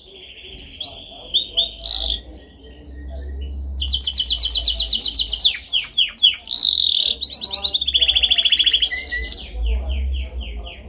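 Domestic canary singing: long rapid trills and fast repeated sweeping notes, loudest in the middle stretch. A low steady hum runs underneath.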